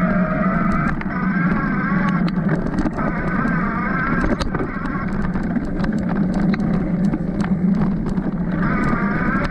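Bafang M620 Ultra mid-drive e-bike motor whining under way, its pitch wavering up and down. Over it run a low rumble and many short clicks and rattles from the bike on rough ground.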